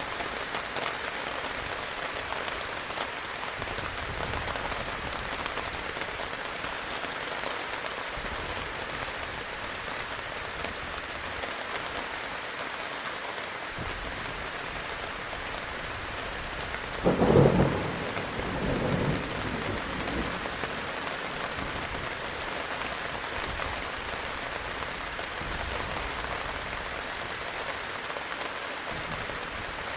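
Heavy rain falling steadily, with a short, loud clap of thunder about halfway through and a weaker rumble a second or two after it.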